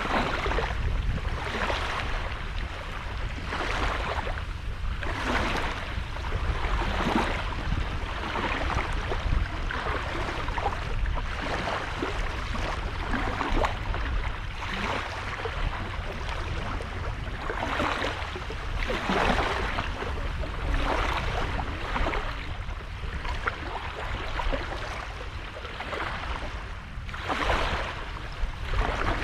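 Small sea waves breaking and washing on a sandy beach, one rush of surf after another every second or two, over a steady low rumble.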